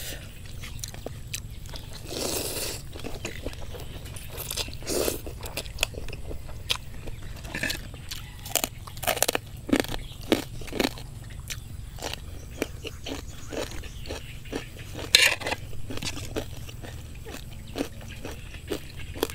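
Close-miked chewing and crunching of mouthfuls of rice noodles with crisp raw vegetables: many short, wet crunches and clicks, with a couple of longer noisy bursts about two seconds in and near fifteen seconds.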